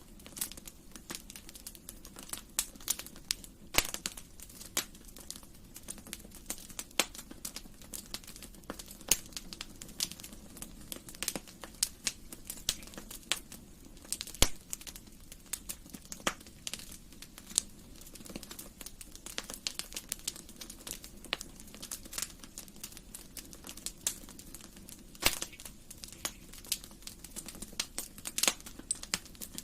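Wood fire in a fireplace crackling: irregular sharp pops and snaps, several a second, some louder than others, over a low steady hiss of the burning logs.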